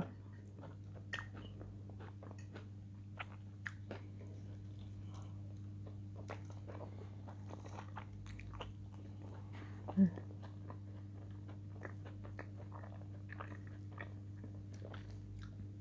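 Close-up mouth sounds of a person chewing and biting food, with many small soft clicks spread throughout. There is a short vocal sound about ten seconds in and a steady low hum underneath.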